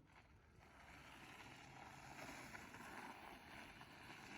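Near silence: faint, steady background noise.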